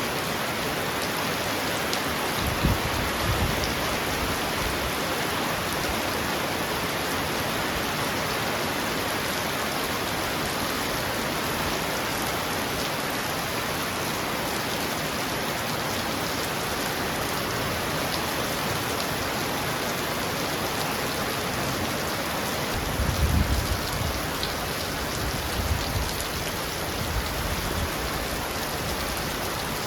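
Heavy rain pounding on a roof in a steady, dense hiss. Low rumbles of thunder come about two and a half seconds in and again from about 23 seconds on.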